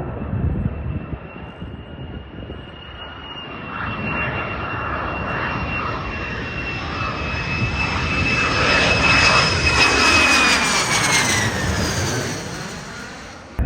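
F-35 Lightning II jet passing overhead: the high whine of its single F135 turbofan engine grows louder with rushing jet noise, peaks about ten seconds in, then drops in pitch as the jet goes by and fades. The sound cuts off suddenly near the end.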